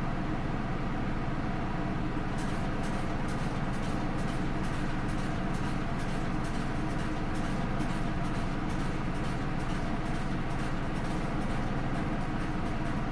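Interior sound of a Hino Rainbow II bus under way, its Isuzu 4HK1-TCH four-cylinder turbo-diesel giving a steady low hum. From about two seconds in, rapid light ticks or rattles sound over the hum.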